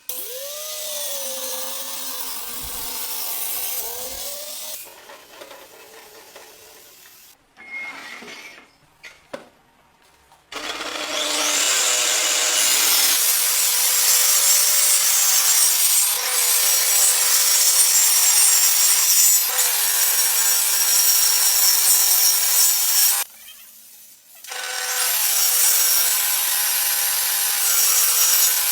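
Angle grinder cutting through wood: a long steady cut with a constant motor whine under loud rasping. It stops briefly near the end and then starts cutting again. It is preceded by quieter handling and a few knocks.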